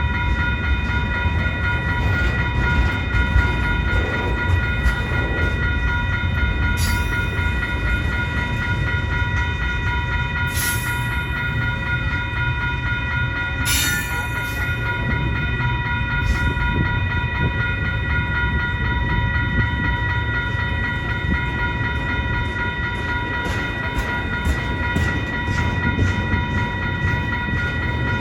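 CN mixed freight train's cars rolling past with a steady rumble. Several steady high ringing tones run throughout, and sharp clanks come a few times.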